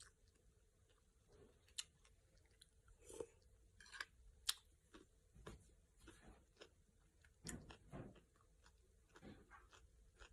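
Faint chewing of crisp cucumber salad: irregular soft crunches and small mouth clicks, the loudest about four and a half seconds in and again around eight seconds.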